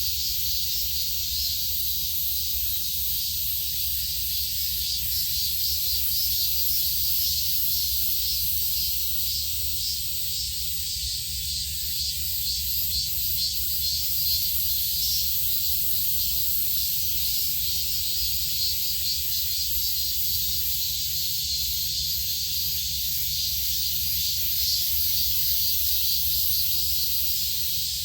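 Steady high-pitched insect chorus with a faint rapid flicker, over a steady low rumble.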